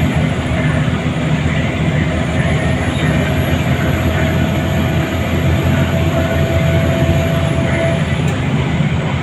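Scania L94UA city bus's diesel engine running steadily under way, heard from inside the cabin, with road noise and a steady whine that fades away near the end. A faint high whine rises and falls over it.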